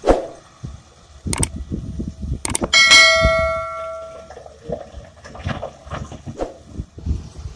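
A series of sharp metallic knocks and clangs, one of them, about three seconds in, ringing out like a bell for about a second before fading.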